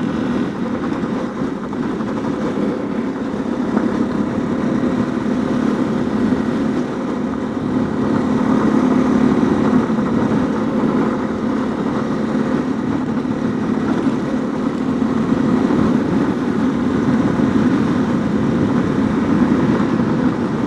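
Honda CRF250L's single-cylinder four-stroke engine running steadily under way on a gravel road, with a rushing noise of wind and tyres over gravel; it gets a little louder about halfway through.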